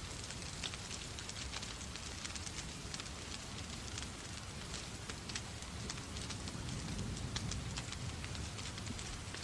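Wood fire in a fireplace crackling with many sharp irregular pops, over the steady hiss of falling rain and a low rumble.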